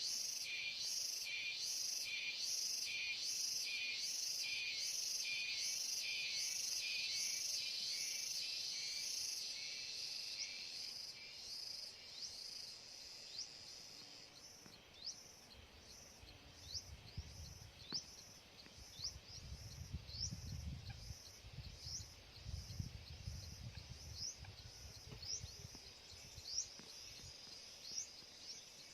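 Insects buzzing in a pulsing chorus, about two pulses a second, fading out after ten seconds or so. Short, thin high chirps then repeat about once every second, with a low rumble in the middle.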